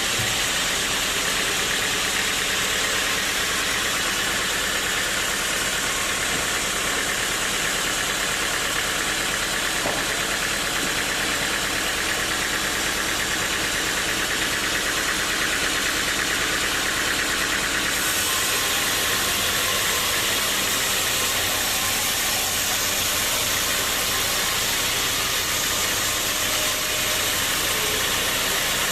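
Sawmill saw running through teak wood: a loud, steady machine noise with a hiss across all pitches and an engine-like hum beneath. The high hiss changes character about eighteen seconds in.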